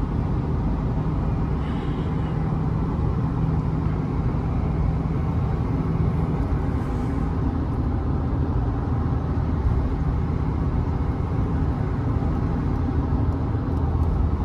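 Steady in-cab noise of a Changan Hunter pickup truck on the move: a constant low engine hum with road and tyre rumble.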